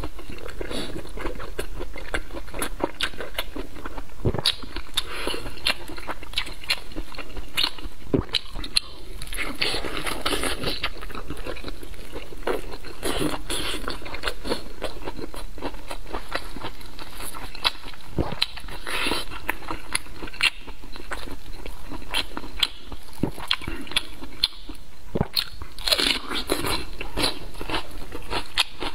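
Chewing and biting of chewy braised pork flower intestines, a dense run of sharp mouth clicks and smacks.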